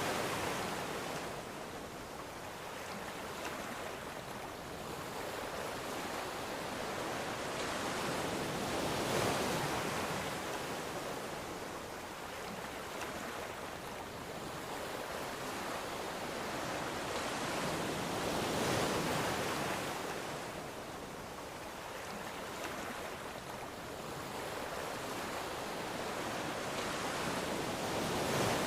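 Ocean waves breaking on a shore in a steady wash of surf, swelling to a peak roughly every nine or ten seconds and easing between.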